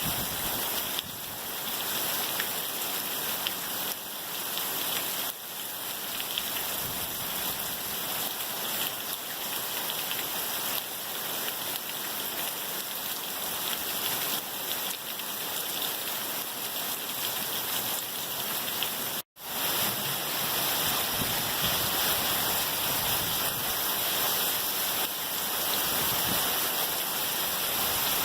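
Torrential rain pouring down in a heavy thunderstorm downpour, a steady dense hiss. The sound drops out for an instant about two-thirds through, then the downpour continues.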